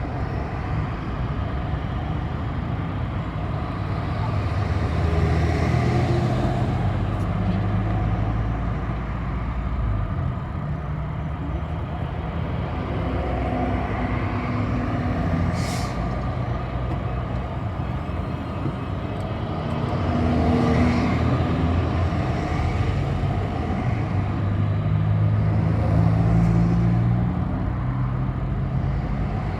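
City bus on the move: the engine runs steadily, its note swelling and easing several times as the bus accelerates and slows. A short hiss of compressed air comes about halfway through.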